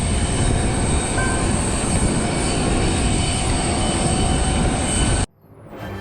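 Airliner cabin noise during the takeoff run: engines at high thrust with a loud, steady rumble and rush, cutting off suddenly about five seconds in.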